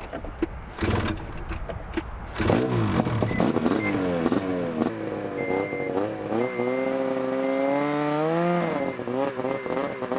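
A vehicle engine being revved, its pitch climbing and falling again and again, with one longer rising rev that drops off sharply near the end; a high beep repeats about once a second under it from about halfway.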